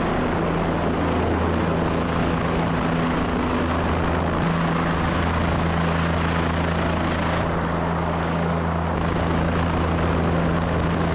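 Helicopter running at a steady pitch, a constant low hum from its engine and rotor under a wash of noise, as in a hover during sling-load work.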